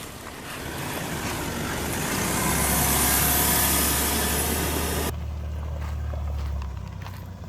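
Motor vehicle driving, its tyre and wind noise building to a peak and then cutting off abruptly about five seconds in, leaving a low engine hum underneath.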